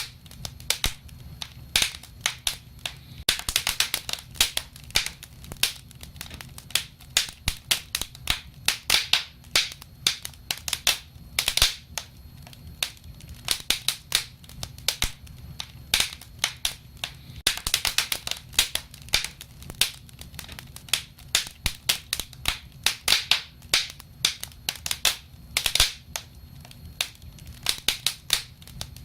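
Wood fire crackling: a dense, irregular run of sharp pops and snaps over a low, steady rumble of the flames, with thicker clusters of pops a few seconds in and again past halfway.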